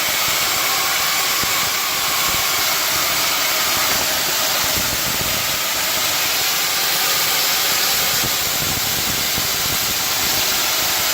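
Steady loud hiss of steam venting from a sauna stove after water has been poured into it.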